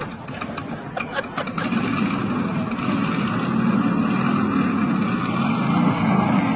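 An engine running steadily, growing louder about two seconds in, after a few short clicks.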